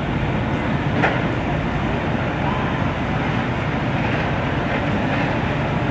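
Steady low rumble of idling vehicle engines with street noise, and one short sharp knock about a second in.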